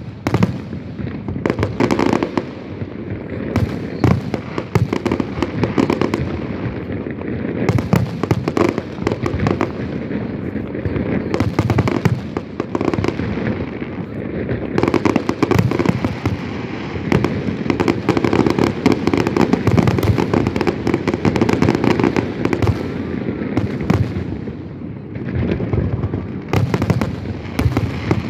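Fireworks display: a dense, continuous barrage of bangs and crackling that eases slightly a few times.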